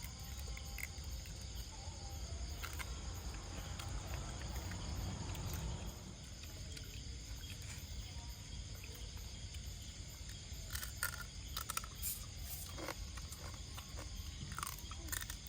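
Steady chirring of insects, likely crickets, over a low rumbling background, with a few short clicks in the second half.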